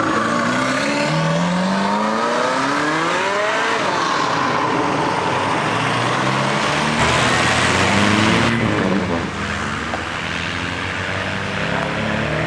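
A car engine accelerating away, its pitch climbing over about three seconds, then a louder rush of engine and road noise a few seconds later, with an engine running at low revs near the end.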